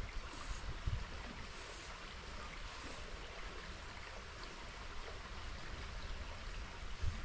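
River water running steadily, with a couple of short low thuds, about a second in and near the end.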